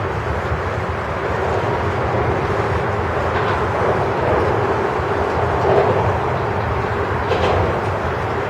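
Freight train of grain cars rolling past, a steady rumble of steel wheels on the rails with faint high squeaks now and then.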